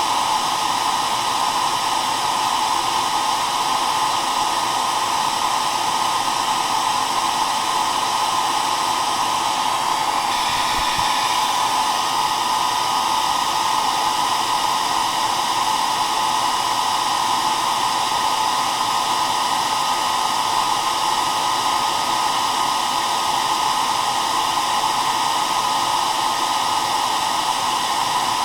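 Hair dryer running continuously: an even, unbroken rush of air with a steady hum, with no change in speed or setting.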